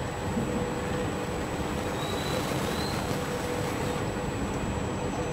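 Passenger train running at speed, heard from on board: a steady rumble and rush of the coaches' wheels on the rails.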